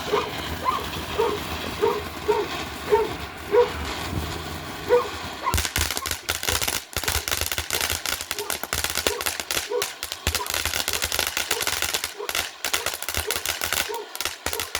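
A dog barks repeatedly, about one to two barks a second. Then, about five and a half seconds in, a firework fountain bursts into a dense, rapid crackle that carries on without a break.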